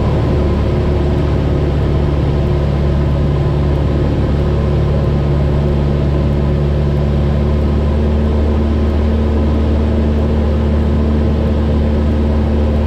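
Cessna 172's piston engine and propeller droning steadily in flight, heard from inside the cabin, its tone shifting slightly about eight seconds in.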